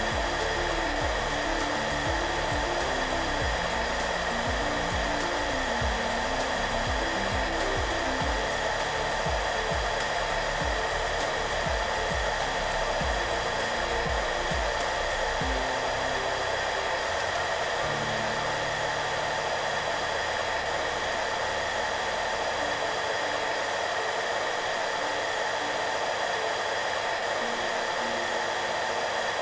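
Hair dryer blowing steadily, an even rushing noise with a faint motor whine, with soft background music playing low notes underneath.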